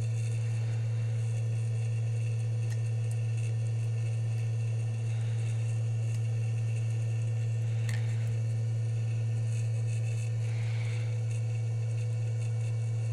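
Steady low hum, with a faint click about eight seconds in.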